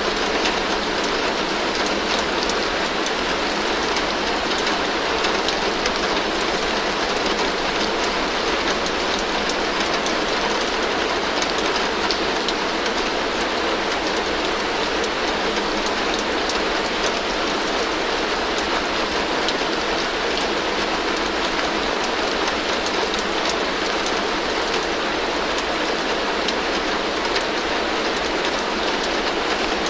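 Heavy rain falling steadily on a tin roof: a dense, even hiss flecked with small individual drop taps, with no let-up or change.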